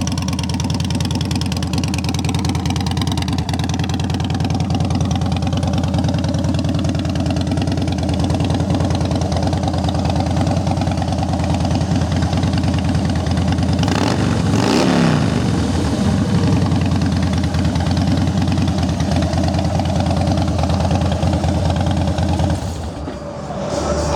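Harley-Davidson Softail Slim's V-twin engine idling steadily through aftermarket Vance & Hines exhaust pipes; the engine sound drops away near the end.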